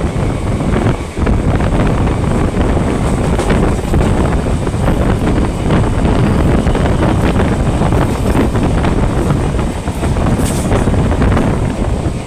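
Wind buffeting the microphone at the open window of a moving train, over the steady rumble of its wheels on the track, while another train passes close by on the adjacent line.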